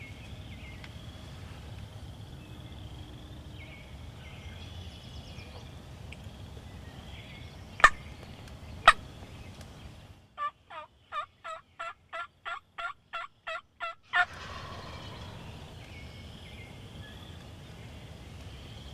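A run of about eleven turkey yelps, evenly spaced about three a second for some four seconds, after two sharp clicks about a second apart.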